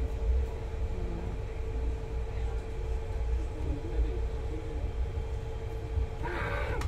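Moving passenger train heard from inside a sleeper coach: a steady low rumble of the running wheels, with a steady hum over it.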